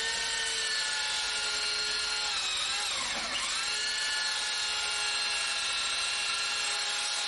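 Electric power tool motor running with a steady whine; about three seconds in its pitch sags briefly under load, then recovers.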